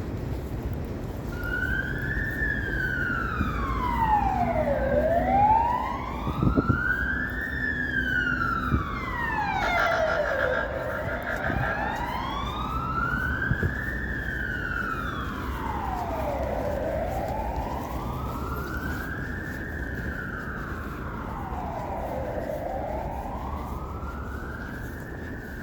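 Emergency vehicle siren wailing in slow sweeps, rising and falling about every six seconds, starting about a second in, over the low rumble of street traffic.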